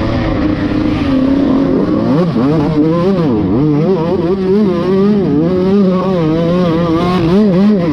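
Dirt bike engine running loud, its pitch steady at first and then rising and falling quickly with the throttle from about two seconds in.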